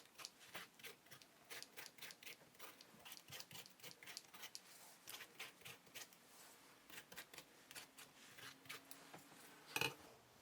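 Faint, quick, light clicks from food preparation, about three or four a second, with one sharper knock near the end.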